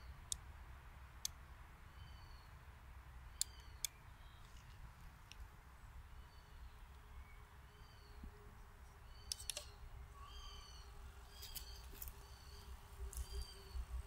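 A woodland bird calling over and over, one short chirp about every second, with a few sharp clicks among the calls. From about six seconds in, a faint steady hum runs under them as the radio-controlled model skidder creeps forward dragging its logs.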